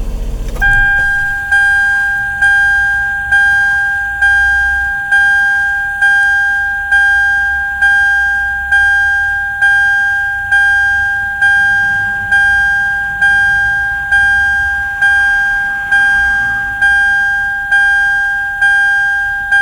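Subaru Stella's electronic warning chime: a two-tone ding that fades after each strike and repeats steadily a little faster than once a second. It starts as the engine's idle stops just under a second in.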